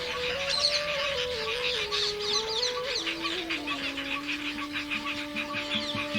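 A dense chatter of many birds calling, with a slow melody of background music stepping from note to note underneath.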